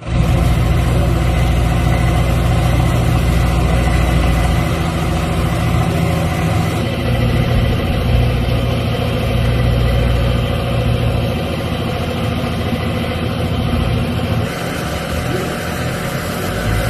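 A vehicle engine idling: a steady low hum that holds throughout.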